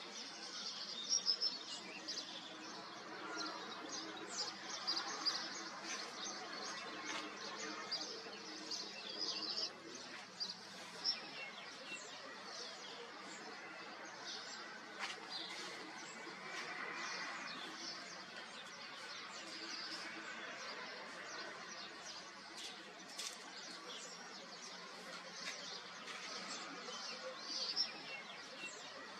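Small birds chirping in quick, scattered calls over a faint steady outdoor hiss.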